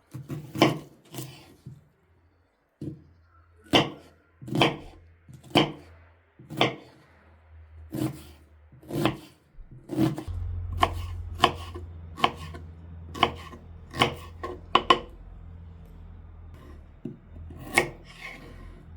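Knife chopping food on a wooden cutting board in single sharp strokes, about one a second at first and a little quicker from about halfway.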